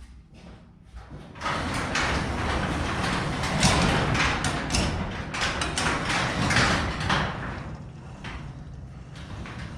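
Sectional garage door rolling along its tracks, its rollers and panels rattling with many small knocks for about six seconds from a second and a half in, then quieter, as the door is tried out after a spring adjustment.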